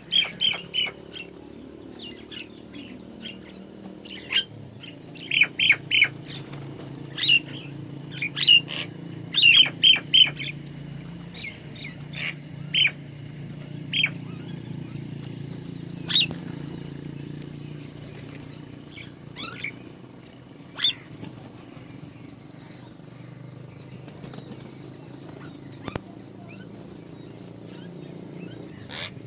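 Small birds at a feeder giving short, sharp chirps, many in quick clusters during the first ten seconds or so and then only now and then, over a steady low hum.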